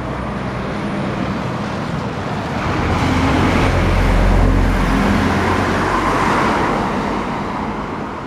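A road vehicle passing close by, its engine and tyre noise swelling to a peak about four seconds in and then fading away.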